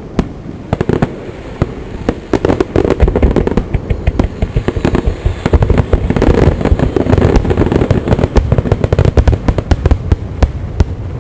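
Aerial fireworks exploding in a rapid, dense barrage of overlapping bangs and crackles over a deep rumble, easing off near the end.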